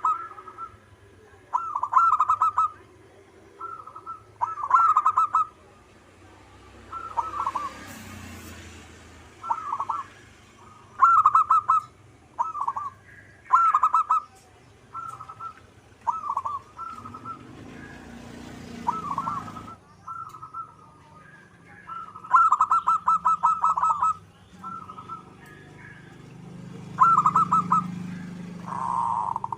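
Zebra dove (perkutut) cooing: short phrases of rapid, pulsed coo notes repeated every one to two seconds, with brief pauses between them.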